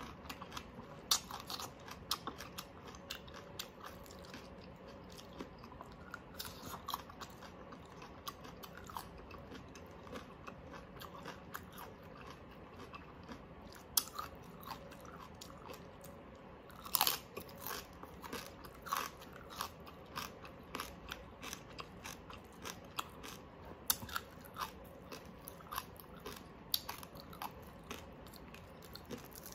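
Close-miked chewing: crisp crunches and wet mouth clicks at irregular moments as a person chews cucumber slices, with one louder crunch a little past the middle.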